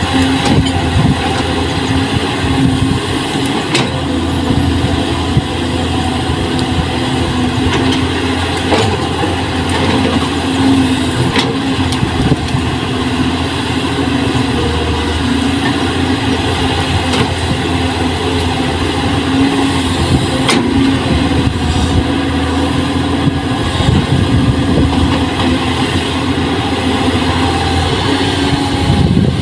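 Diesel engine of heavy field machinery, most likely the Kubota M6040 tractor while plowing, running steadily throughout, with a few sharp clicks or knocks.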